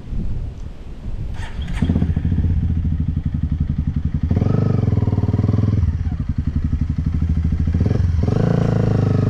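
Dirt bike engine running after a few clicks, then revved up hard twice, its pitch rising: once about four seconds in and again near the end.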